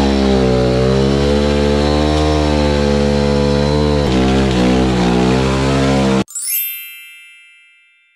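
Kawasaki KLX110 pit bike's small single-cylinder four-stroke engine held at high revs during a rear-wheel burnout, its pitch wavering slightly. About six seconds in it cuts off abruptly, and a ringing chime-like effect takes over and fades away.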